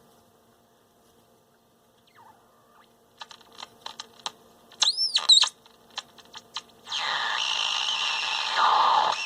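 Heathkit GR-151 transistor radio's speaker: faint hum, then crackles and clicks from about three seconds in, and a whistle that sweeps up and back down about five seconds in. At about seven seconds loud static and station audio suddenly come on, as the local oscillator that had stopped running cuts back in.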